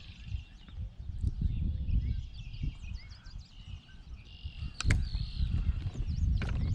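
Wind buffeting the microphone in uneven gusts, with many birds chirping and calling throughout. A single sharp click comes about five seconds in.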